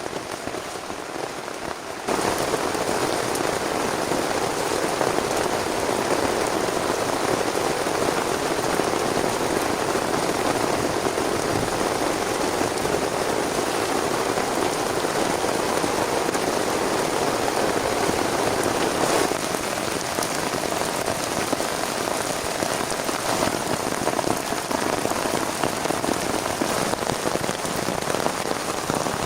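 Heavy rain falling steadily in a dense, even patter. It suddenly grows louder about two seconds in and eases a little past the midpoint.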